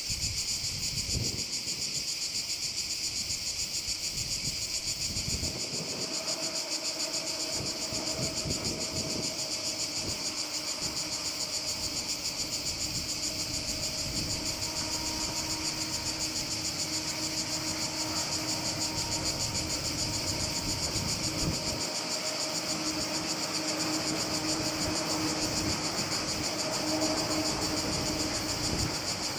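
Steady, rapidly pulsing high-pitched chorus of insects. A faint steady hum from a distant train joins it about six seconds in.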